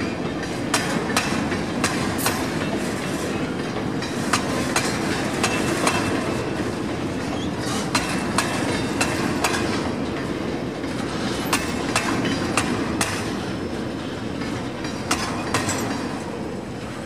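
Empty grain hopper cars of a freight train rolling past, a steady rumble with wheels clicking irregularly over the rail joints. The sound eases off near the end as the last cars go by.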